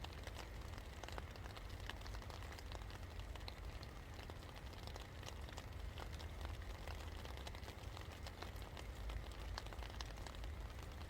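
Rain falling steadily, with many individual drops pattering and ticking on a hard surface over a constant low rumble.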